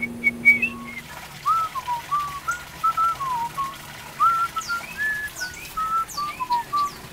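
A run of quick, short whistled notes, each bending slightly up or down, wandering around one middle pitch, with a few brief high falling chirps above them midway through.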